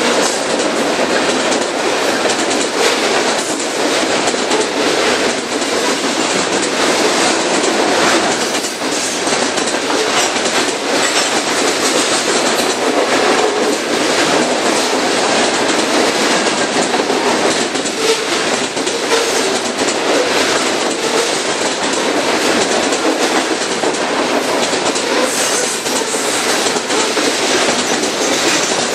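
Freight train cars rolling steadily past at close range, with the wheels clicking rhythmically over the rail joints.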